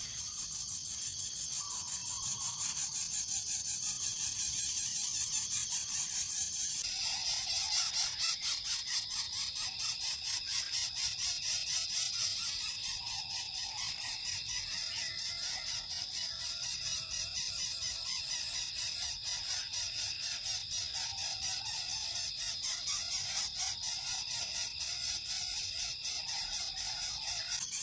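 Insects trilling in chorus: a continuous, fast, even pulsing with high steady tones, becoming fuller and louder about seven seconds in.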